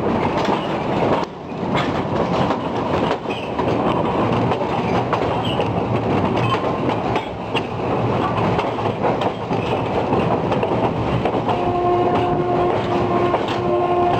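Metre-gauge passenger train running over a steel railway bridge, heard from on board: a steady rumble of wheels on rails with frequent clicks. A steady pitched tone joins in near the end.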